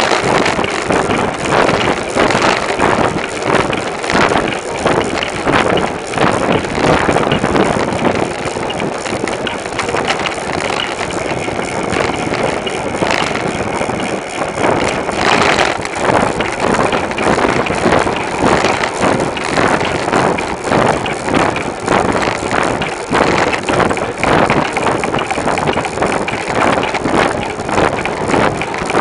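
Rushing wind and road noise on a camera riding on a moving bicycle, with constant small rattles and bumps from the bike.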